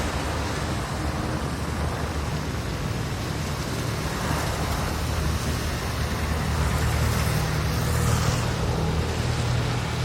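Steady road-traffic noise with a low engine hum, swelling a little about four seconds in and again near eight seconds as vehicles pass.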